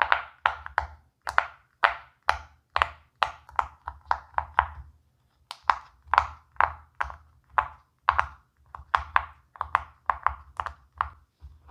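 Silicone pop-it fidget toy bubbles being pressed one after another, each giving a short, sharp pop, about two a second, with a brief pause about five seconds in.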